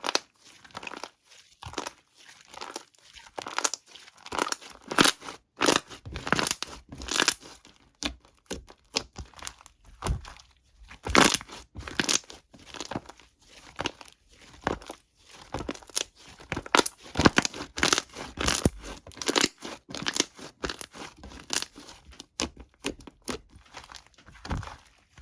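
Irregular crinkling and tearing of a thin material handled close up, a quick run of sharp crackles with brief pauses.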